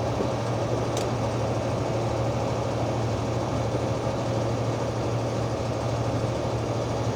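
Semi truck's engine and road noise heard inside the cab while cruising on the highway: a steady low drone, with a faint tick about a second in.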